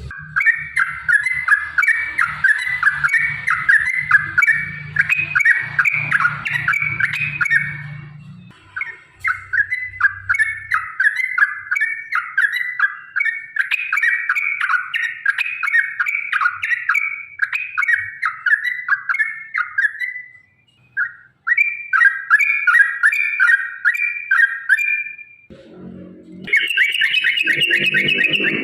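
Yellow-vented bulbul (trucukan) singing long, fast rolling phrases of chattering notes, several phrases in a row with short breaks. The last phrase near the end is pitched higher.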